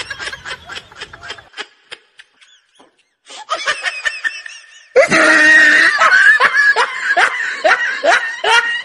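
Laughter in rapid ha-ha pulses, a few a second; it breaks off for about two seconds early on, comes back, and is loudest from about five seconds in.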